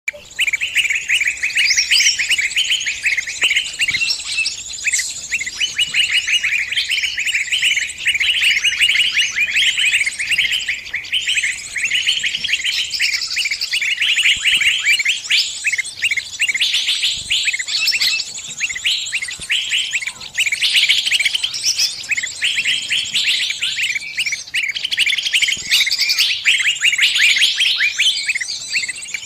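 Small birds chirping rapidly and continuously in dense, high-pitched chatter: the distress calls of a trapped bird crying to others of its kind.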